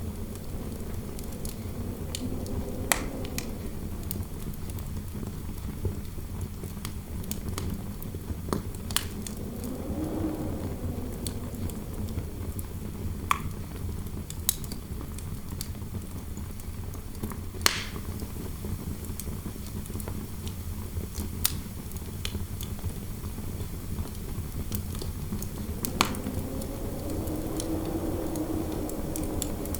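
Fireplace fire crackling, with sharp pops at irregular intervals a few seconds apart, over a steady low rumble. A wind howl drifts through the room, swelling and fading twice, once about a third of the way in and again near the end.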